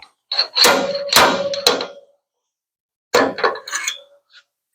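Metallic clanks and knocks on the sheet metal of a pickup bed, as welded pull studs are worked with a dent puller and body hammer, one with a short ringing tone. They come in two bursts, the second about three seconds in.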